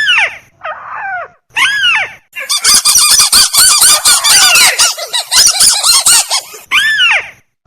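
Recorded crake ('tikusan') calls looped as a bird lure. Single arched calls come near the start and again near the end. Between them runs a long stretch of rapid, dense chattering notes.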